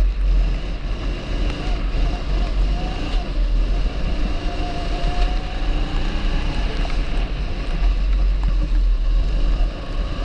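270cc rental kart engine running with its pitch rising and falling gently, under a heavy low rumble of wind on the microphone.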